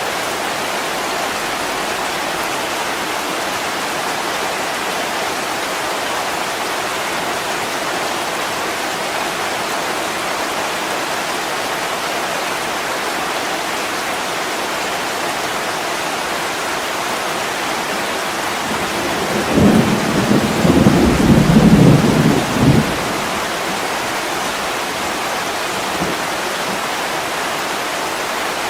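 Heavy rain falling steadily on a window, with a rumble of thunder lasting about three seconds, a little past two-thirds of the way through.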